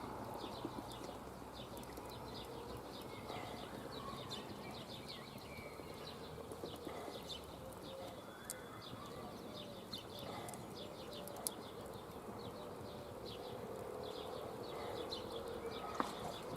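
Quiet outdoor ambience with birds calling: many short chirps throughout, and faint low cooing like a dove's.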